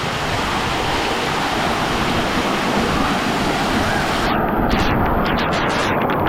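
Steady rushing noise of moving water, with wind buffeting the phone's microphone.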